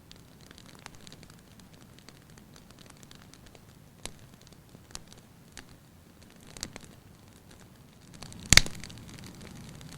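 Wood fire crackling in a fireplace: scattered sharp pops over a faint steady hiss. One much louder pop comes near the end, and the hiss grows a little louder around it.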